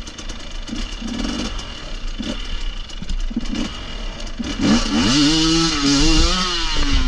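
Off-road motorcycle engine blipped at low revs a few times, then revved hard from about four and a half seconds in and held high with a wavering pitch, the rider trying to power the bike over a log that its rear tyre slips on.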